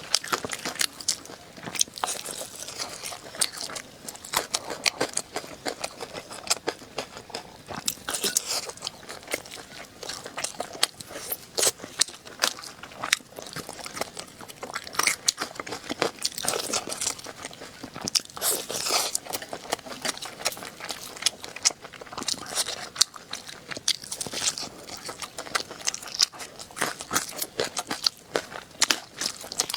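A person eating ribs, biting and chewing with many sharp, irregular crunches throughout.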